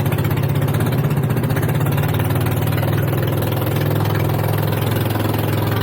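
Small boat's engine running steadily with a fast, even pulse, settling to a slightly lower pitch about two-thirds of the way through.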